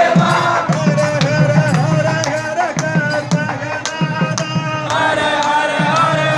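Temple festival music: a wavering melody over low drum beats, with frequent sharp percussion strikes.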